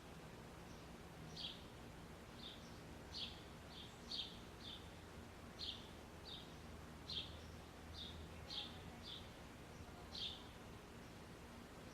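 A small bird chirping over and over, short high notes coming irregularly about one to two a second, faint against a low background hum.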